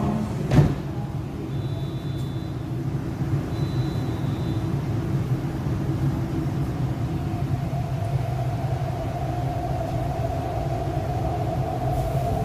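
Electric train interior, an MTR East Rail Line R-Train standing at the platform with the doors shut: a single loud clunk about half a second in, two short high beeps a couple of seconds apart, then a steady whine that comes in after about seven seconds as the train starts to pull away, over the car's low rumble.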